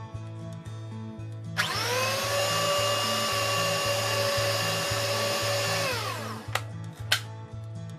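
Electric stand mixer motor whirring as its beaters cream butter and sugar in a glass bowl. It starts about a second and a half in, its pitch climbing quickly as it spins up, runs steadily for about four seconds, then winds down. Two sharp clicks follow near the end, over background music with a steady beat.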